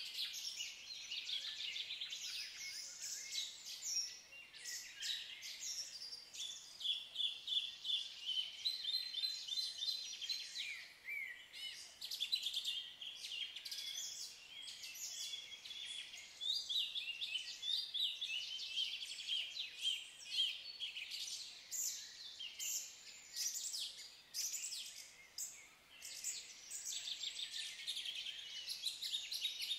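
Songbirds singing and chirping in a steady stream of high, quick notes and trills, several calls overlapping.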